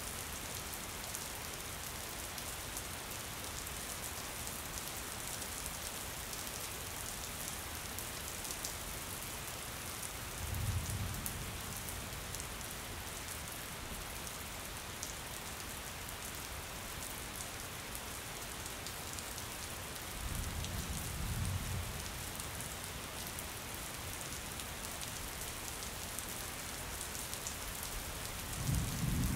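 Steady rain falling, with fine drop ticks, as on window glass. Three brief low rumbles of distant thunder come roughly ten seconds apart, the last near the end.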